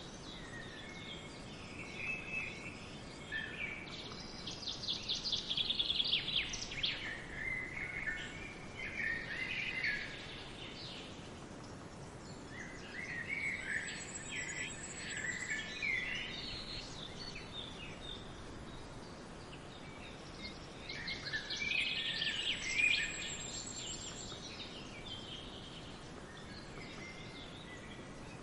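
Forest songbirds singing in three bouts of quick, trilled song phrases, each lasting a few seconds and spaced about eight seconds apart, over a steady background hiss.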